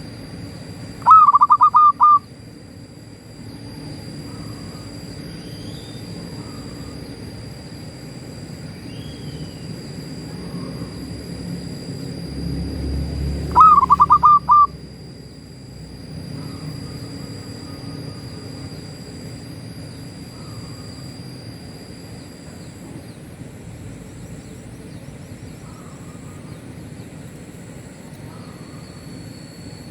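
Zebra dove (perkutut) cooing: two loud phrases of several quick notes, about a second in and again about thirteen seconds in, with fainter short calls between. A steady high whine runs behind, and a low rumble swells just before the second phrase.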